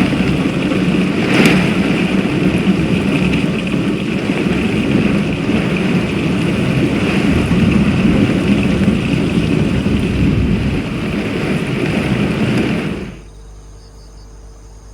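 Torrential rain and wind of a violent storm making a loud, steady roar, with one sharp crack about a second and a half in. The roar cuts off suddenly near the end, leaving a faint steady background.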